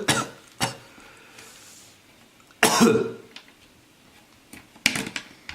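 A person giving a few short coughs, the loudest about two and a half seconds in, as they puff out humidifier mist to try to form vapor rings.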